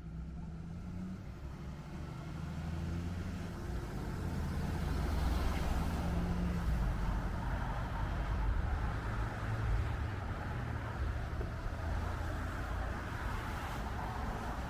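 Road traffic going by: a steady rumble of engines and tyres that builds over the first few seconds and then holds.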